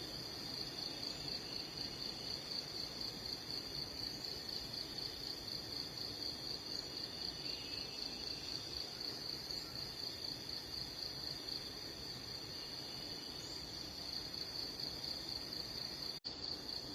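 Steady high-pitched insect trill, pulsing rapidly and without a break, cricket-like, with a few faint short chirps now and then. The sound cuts out briefly near the end.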